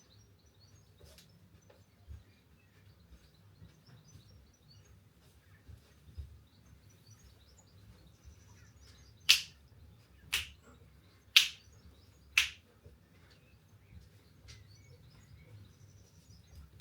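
Four sharp finger snaps, about a second apart, in time with a beat, over faint birds chirping in the background.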